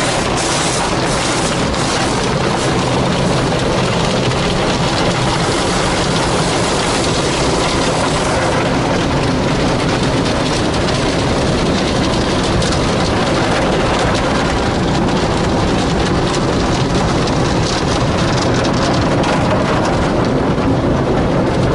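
Car wash water jets spraying steadily onto a car, a loud constant rush of water drumming on the body.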